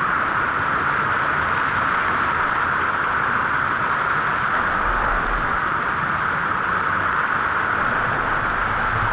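Steady, loud rushing of a waterfall's falling water, an even hiss-like noise that does not change.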